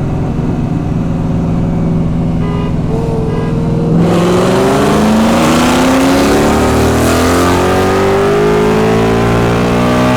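Whipple-supercharged Ford Mustang GT V8 cruising at a steady roll speed, then about four seconds in it goes to full throttle, and the engine note climbs steadily in pitch as the car accelerates hard. Right at the end the note breaks off briefly, like an upshift.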